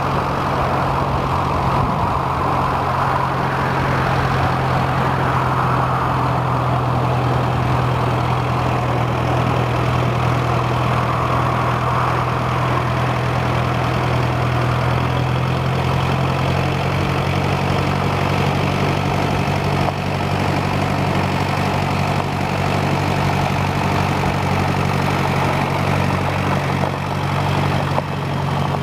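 John Deere 2010 tractor engine idling steadily, holding an even pitch throughout with no revving.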